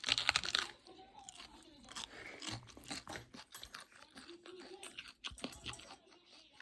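A loud crunchy bite into cabbage, then steady mouth-chewing with crisp crackles as the leaves are crushed.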